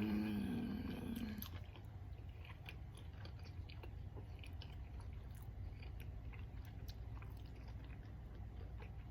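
Close-miked mouth sounds of a person chewing seafood-boil food, a run of small irregular wet clicks and crunches. A hummed 'mm' trails off in the first second or so.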